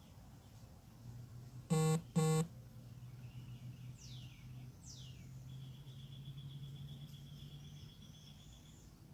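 Two short, buzzy horn honks about half a second apart, the loudest sound here. They are followed by two quick falling whistled bird calls and then a steady, high, pulsing trill, over a low steady hum.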